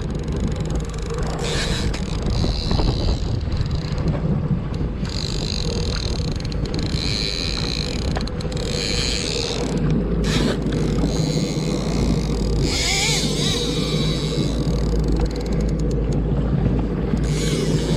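Small boat's engine running steadily at trolling speed, with wind buffeting the microphone and on-and-off bursts of high hiss.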